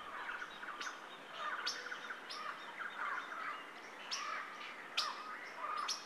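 Birds chirping: scattered short, irregular calls with a few sharp ticks among them.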